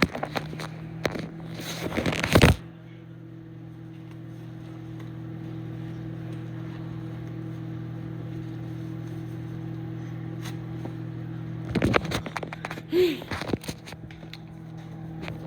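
Microwave oven running with a steady electrical hum. A loud noisy burst comes about two seconds in, and a few clicks come near the end.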